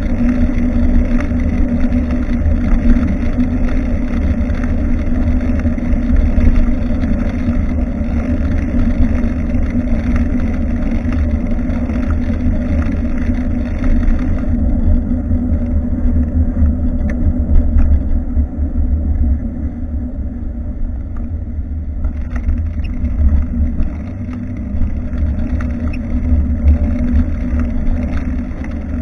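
Wind rumble and road noise on a bicycle-mounted action camera's microphone while riding, with a steady low hum and small rattles and clicks from the bike. About halfway through, the higher hiss drops away for several seconds, then returns.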